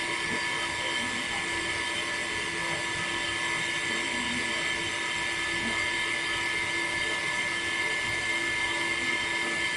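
A small electric motor running with a steady whine.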